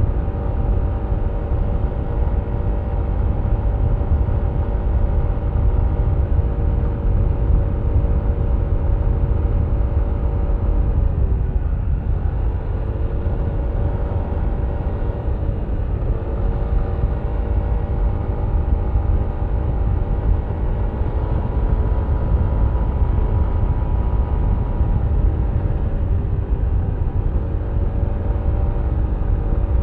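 Yamaha Aerox V3 scooter's single-cylinder engine running at a steady cruise over a heavy low rumble. Its pitch dips briefly about eleven seconds in and again around sixteen seconds, then climbs back.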